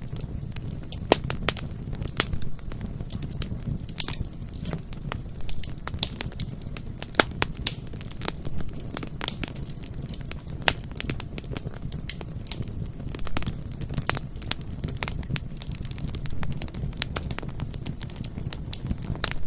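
Bonfire burning with a steady low rumble and frequent irregular crackles and pops of burning wood.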